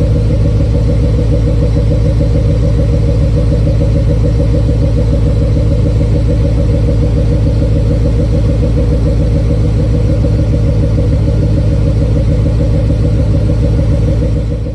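1993 Chevrolet Corvette C4's V8 idling steadily while warming up after a cold start.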